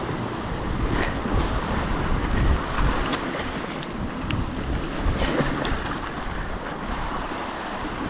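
Strong wind buffeting the microphone over surf washing on a rocky shore, with a few faint clicks.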